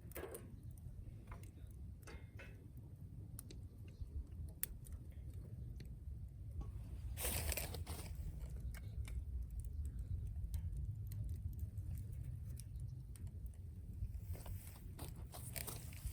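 Wood campfire crackling, with scattered sharp pops and snaps over a steady low rumble. A louder rush of noise comes about seven seconds in, and another near the end.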